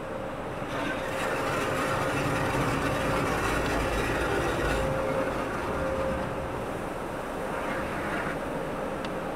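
Automatic car wash running, heard from inside the car: a steady rush of water spray and machinery with a faint steady hum. It swells about a second in and eases after about five seconds.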